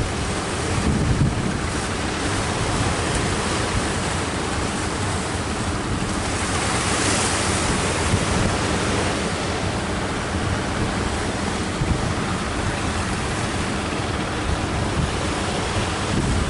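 Strong wind buffeting the microphone over surf breaking on the beach: a steady rush of noise with a low rumble, and a louder hiss swelling up about halfway through.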